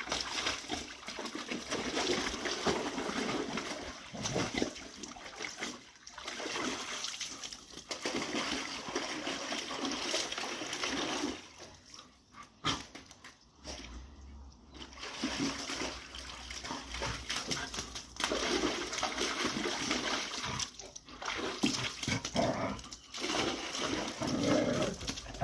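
Dogs swimming and playing in water: irregular splashing and churning water mixed with dog sounds, quieter for a few seconds about halfway through.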